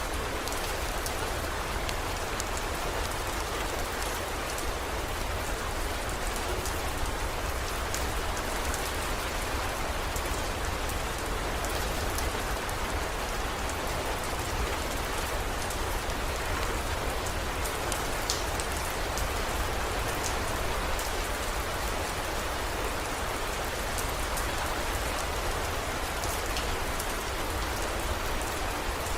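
Steady heavy rain, an even dense hiss with scattered sharp drop ticks and a constant low rumble underneath.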